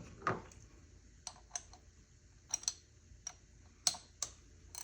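Scattered light metallic clicks of a ratchet and 5/8-inch spark plug socket being fitted and turned to break a spark plug loose, irregularly spaced over a faint steady hum.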